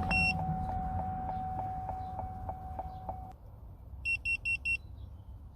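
Handheld OBD scan tool beeping as it connects and reads the engine computer: one short high beep near the start, then four quick beeps about four seconds in. Under them, a steady tone with fast regular ticking runs until about three seconds in, then stops.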